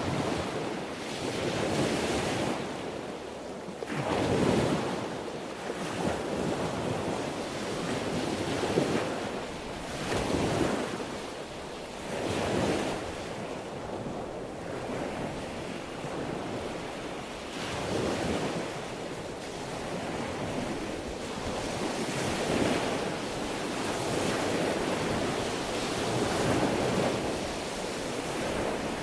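Ocean waves breaking and washing on the shore, swelling and ebbing every couple of seconds, with wind noise on the microphone.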